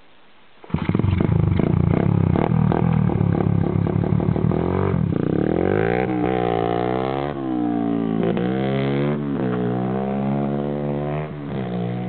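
Pit bike engine starting up loudly about a second in, with a clattery note at first. It then pulls away, the engine pitch rising and dropping back several times as the bike accelerates and climbs.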